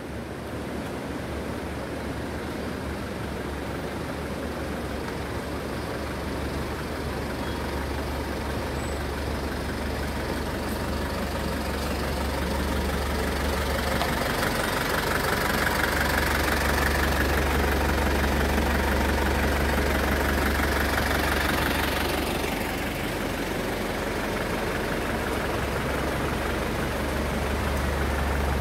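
A Tata SUV's engine idling with a steady low rumble. It grows louder toward the middle, is loudest from about halfway to about three quarters of the way through, then eases off slightly.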